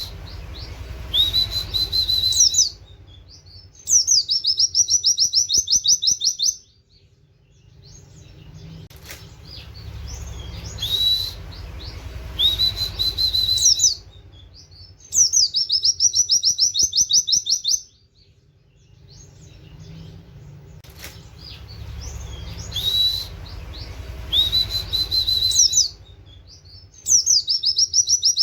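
Oriental white-eye (pleci) singing in its rapid 'nembak' style: short rising whistles followed by fast, high trills of about two to three seconds, mixing in 'wit wit' and canary-like phrases. The bursts come in pairs that repeat at a regular interval, over a low background rumble.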